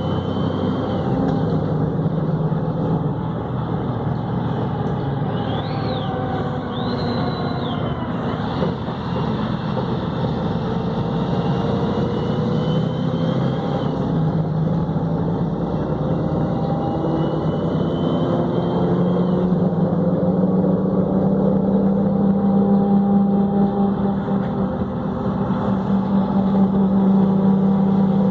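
Volvo B7RLE bus's diesel engine running under way, with a whine from the Voith automatic gearbox. The pitches glide up and down as the bus changes speed, and the engine note grows louder in the second half.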